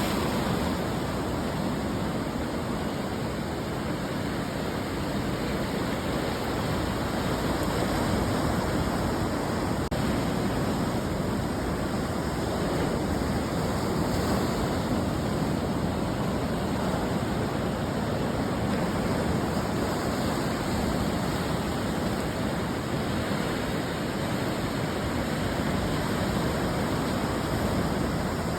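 Ocean waves breaking on a beach: a steady rush of surf that swells and eases every several seconds, with no single sharp crash.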